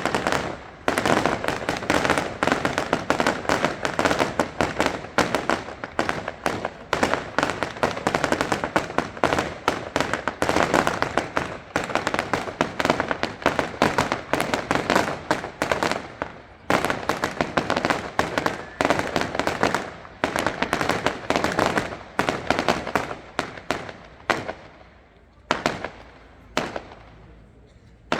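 Fireworks display: a dense barrage of rapid bangs and crackles, thinning to a few separate bangs in the last few seconds.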